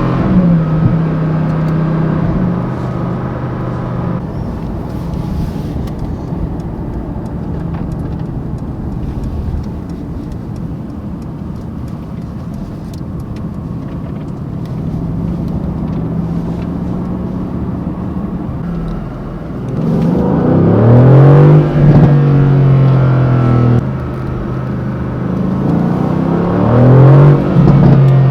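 Mercedes-AMG GT C's twin-turbo V8 driving, first cruising steadily at moderate load. Then, about two-thirds in, it twice revs hard under acceleration, its note rising until an upshift drops it suddenly.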